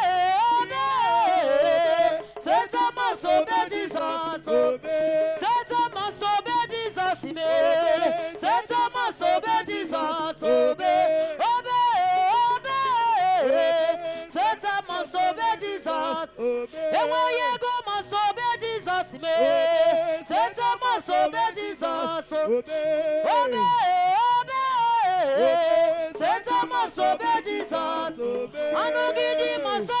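Worship singing: a voice carries a wavering melody in repeating phrases, with music under it.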